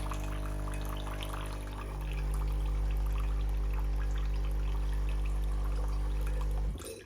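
Nespresso Essenza Plus capsule machine running its rinse cycle: the pump hums steadily while water pours through into the container below. The hum cuts off suddenly near the end as the machine switches itself off automatically, which marks the rinse cycle as complete.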